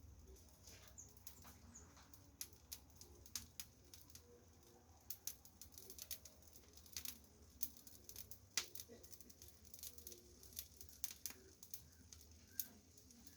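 Faint, irregular sharp ticks and taps of small seed-eating finches pecking seed off a barbecue, with a few brief high chirps about a second in.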